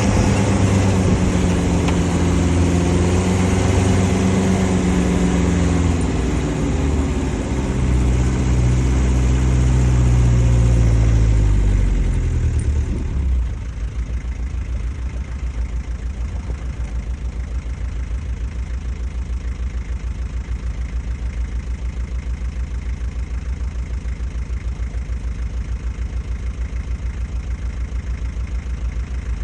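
Land Rover Defender 110 engine running at raised revs, its pitch rising and falling, then dropping about 13 seconds in to a steady, evenly pulsing idle.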